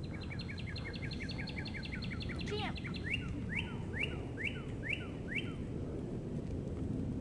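A songbird singing: a quick run of about twenty short, evenly repeated notes, then six slower rising notes, over a steady low background rumble.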